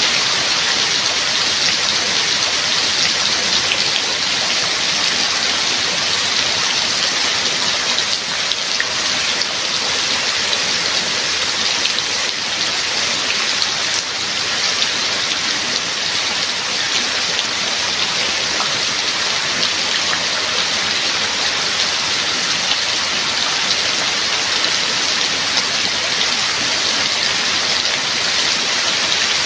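Steady heavy rain, a dense even hiss of falling drops with fine patter of individual drops.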